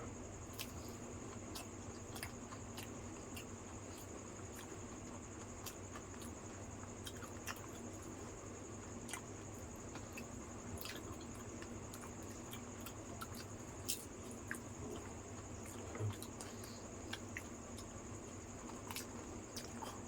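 Close-up chewing and squelching of doi fuchka, crisp puffed puris filled with potato and topped with yogurt, with scattered small clicks and a few louder ones over a steady background hum.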